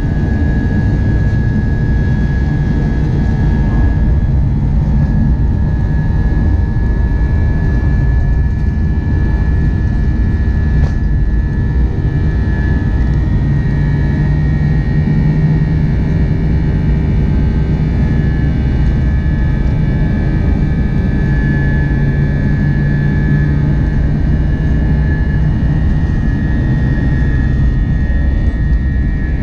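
Airbus A320 jet engines and airflow heard from the front of the cabin at takeoff and climb power: a loud, steady deep rumble with a thin steady whine above it.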